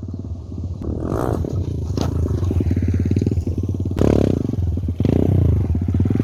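Stock, unmodified motorcycle engine running and revving, its loudness rising and falling as it is ridden, with two sharp knocks about two and four seconds in.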